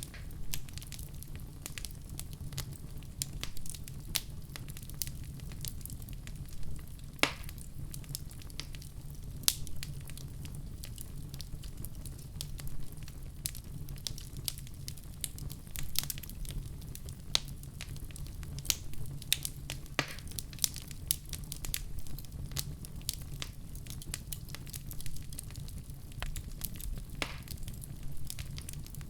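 Wood fire burning in a fireplace: a steady low rumble of flames with irregular crackles and occasional sharper pops of burning logs.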